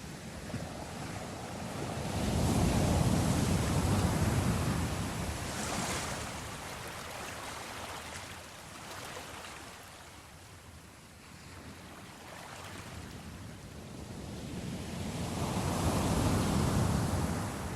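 Ocean waves washing ashore: two big swells of surf, one a couple of seconds in and another near the end, with a hissing wash of foam between them.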